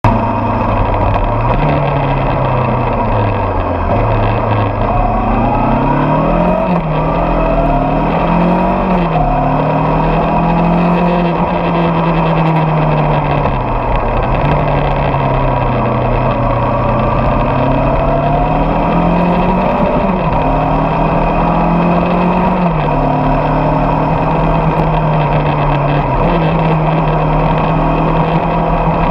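Motorcycle engine running while riding, its pitch climbing and then dropping suddenly several times, as the bike accelerates and shifts up through the gears.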